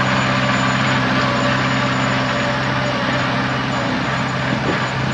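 Heavy diesel engine running steadily at an even speed; its tone weakens slightly about three seconds in.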